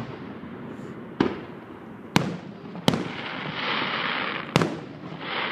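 Aerial fireworks shells bursting: four sharp bangs about a second apart, with a stretch of hiss from the bursting effects around the last two.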